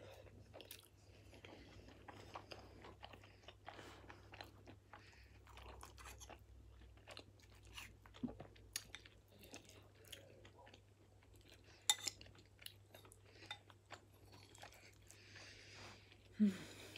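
Close-up chewing of a mouthful of beef Mexican lasagne, layered with flatbread and cheese: a steady run of small mouth clicks and smacks, with a sharper click about twelve seconds in and another just before the end.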